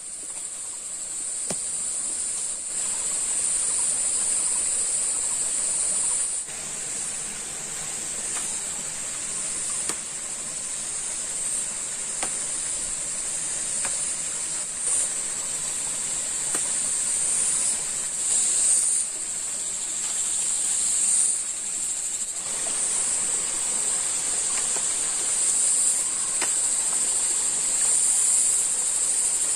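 Steady, high-pitched drone of an insect chorus in tropical rainforest, swelling and easing a little, with a few faint clicks scattered through it.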